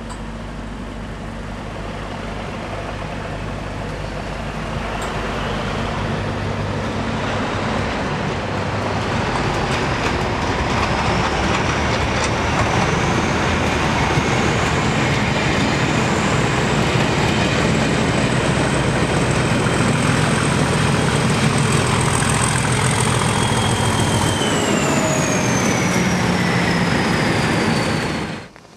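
Network Rail yellow test train running through the platform, its engine and wheels growing steadily louder over the first fifteen seconds. A high whine climbs in pitch and then falls about four seconds before the sound cuts off suddenly.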